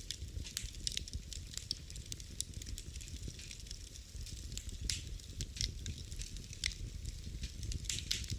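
Wood fire in a fireplace crackling, with irregular small pops and snaps over a steady low rumble of the flames, and a quick cluster of louder pops near the end.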